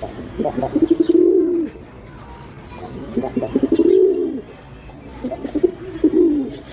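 Domestic pigeon cooing three times, each coo opening with a quick stutter of short notes and swelling into a low held note that rises and then falls.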